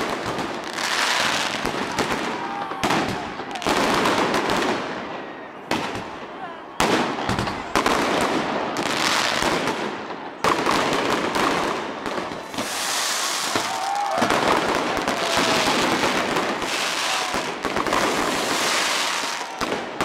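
Fireworks display: aerial shells bursting one after another in a dense barrage of sharp bangs and crackle, with short lulls between volleys.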